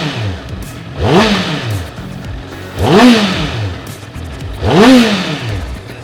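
Honda CB650R's 649 cc inline-four engine idling and blipped three times, each rev rising quickly and falling back to idle, about two seconds apart. The exhaust note is throaty.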